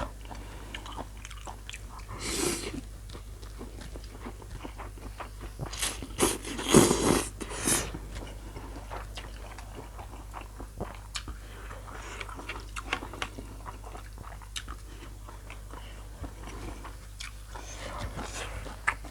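Close-up eating sounds of spicy misua noodle salad with chicken feet: steady chewing and many small wet mouth clicks. There are louder, noisier bursts about two seconds in and again around six to eight seconds in.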